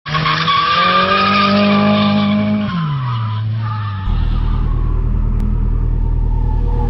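Drift car's engine held at high revs with tyres squealing, its pitch dropping sharply about three seconds in. From about four seconds a steadier, lower engine note over a deep rumble.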